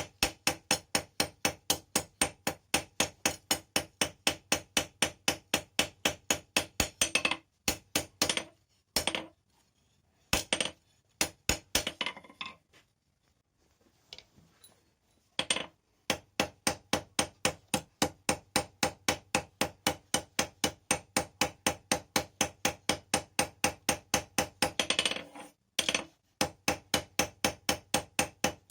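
Blacksmith's hammer striking steel rebar on an anvil in a steady rhythm of about four ringing blows a second. The blows stop for several seconds in the middle, leaving only a few single strikes and a near-quiet gap, then pick up again at the same pace.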